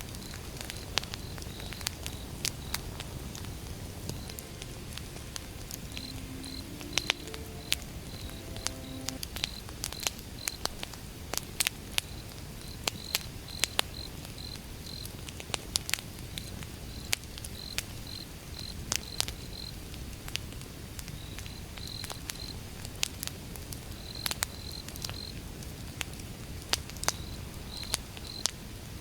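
Wood fire crackling, with many sharp pops over a low steady rumble. High short chirps repeat in quick groups in the background.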